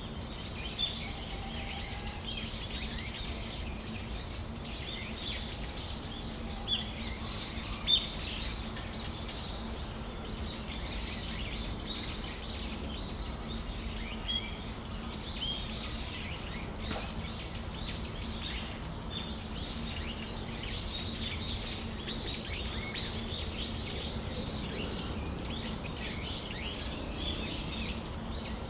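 Brown-eared bulbuls calling: many short chirps overlapping, with a few louder, sharp calls in the first third. A steady low hum runs underneath.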